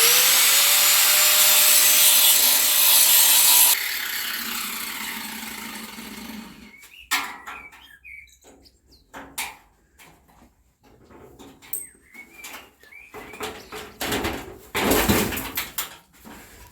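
Electric grinder spinning up with a rising whine and grinding the head off a seized bolt for about four seconds, then switched off and winding down. Scattered knocks and clicks follow, with a second short burst of grinding noise near the end.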